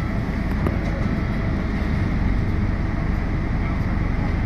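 Steady low rumble of a Scania K320UB hybrid city bus heard from inside the cabin: the drivetrain and road noise run evenly without any distinct events.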